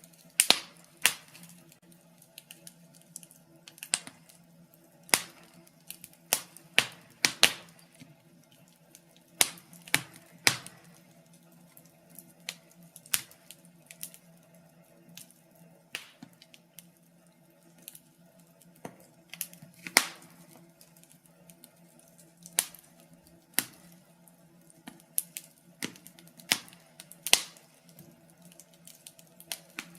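Wood fire in a fireplace crackling, with irregular sharp pops, some loud, about one to three a second, over a faint steady low hum.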